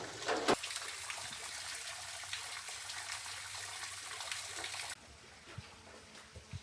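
Running water trickling, a steady hiss. A sharp knock sounds about half a second in, and the water sound cuts off suddenly about five seconds in, leaving a quieter background.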